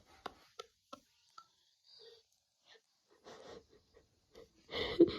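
A few faint clicks, then a short breathy vocal sound near the end, like a wheeze or a sob.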